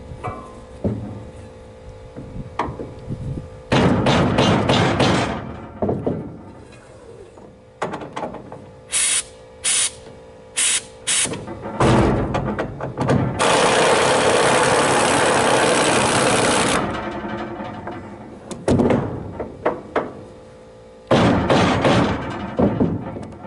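Workshop knocks and clatter of tools on the trailer, with a power tool running steadily for about three seconds a little past the middle.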